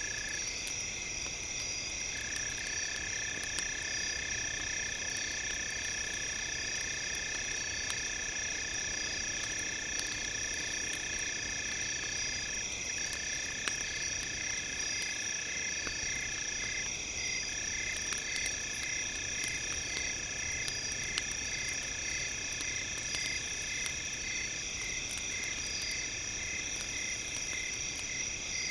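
Layered electronic tones for headphone brainwave listening: several high tones held steady while two pulse about twice a second, over the scattered crackle of a campfire.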